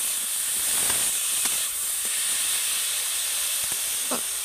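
Grated raw potato and spices sizzling steadily in a little oil in a metal kadai, while a spatula presses and stirs it, scraping against the pan a few times.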